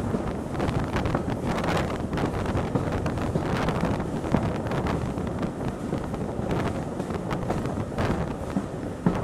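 Wind rushing past the open window of a moving steam-hauled train carriage, buffeting the microphone, over the steady running rumble of the carriage on the track with scattered faint clicks.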